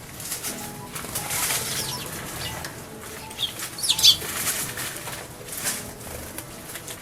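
Eurasian tree sparrows bathing in a shallow bird bath: repeated bursts of splashing water and fluttering wings. A few sharp chirps about three to four seconds in, the loudest moment.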